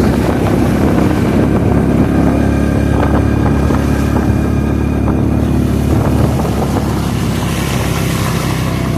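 Suzuki King Quad ATV engine running steadily while the quad is ridden along.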